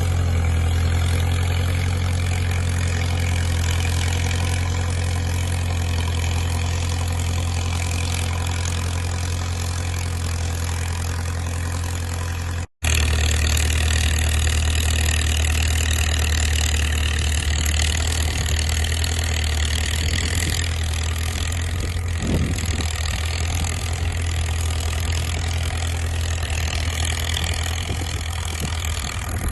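Caterpillar bulldozer's diesel engine running steadily with a strong low drone. It drops out for an instant about a third of the way through, then carries on unchanged.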